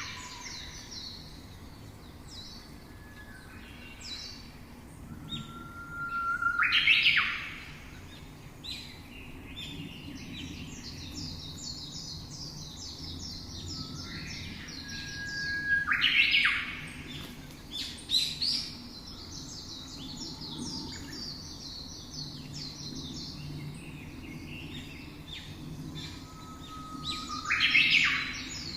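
Birdsong: rapid, high twittering goes on throughout. About every ten seconds, three times in all, a louder phrase breaks in: a short held whistle followed by a loud, harsh burst.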